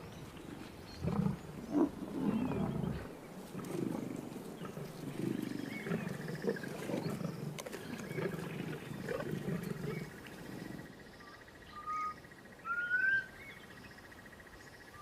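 Lions giving a run of rough, low, irregular calls for about ten seconds. After that, a bird gives a few short rising whistles.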